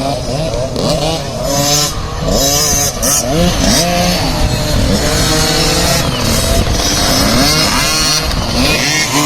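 Several small two-stroke motocross bikes revving on the track, their engine notes rising and falling and overlapping as the riders work the throttles.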